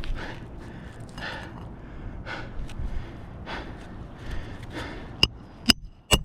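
Heavy, rhythmic breathing close to the microphone, about one breath a second. Near the end come three sharp, ringing metallic strikes.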